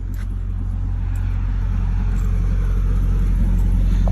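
Steady low rumble of road traffic, growing slowly louder as a vehicle approaches on the highway.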